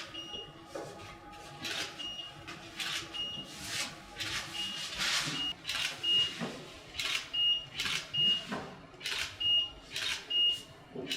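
A camera shooting a quick series of photos: a short high focus-confirmation beep and the rustling snap of the shutter, again and again, about once a second.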